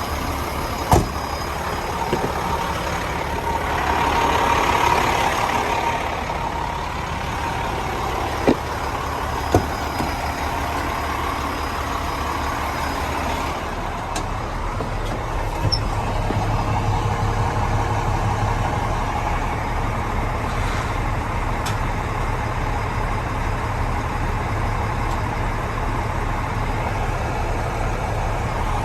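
Diesel engine of a volumetric mixer truck on an International 7600 chassis running steadily. There are a few short sharp clicks about a second in and twice around nine to ten seconds in, and the engine note grows fuller about sixteen seconds in.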